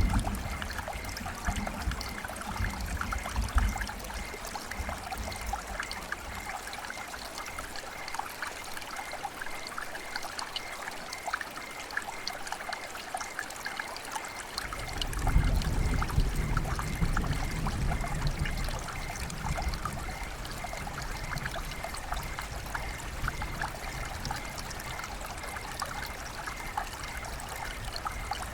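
Rain pattering steadily, with trickling, running water. A low rumble swells at the start and again about halfway through.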